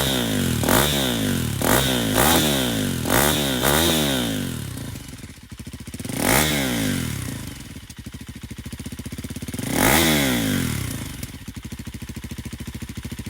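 KTM Duke 200 single-cylinder engine with a GPR M3 stainless aftermarket exhaust, blipped through about five quick revs, then idling. It is revved twice more, once about six seconds in and once about ten seconds in, each time dropping back to idle.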